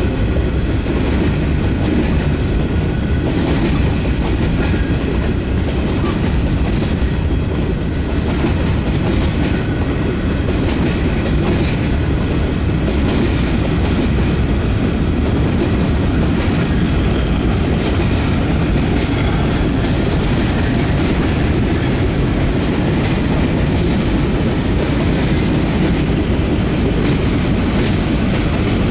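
Freight cars rolling past: a steady rumble of steel wheels on rail with clickety-clack over the rail joints.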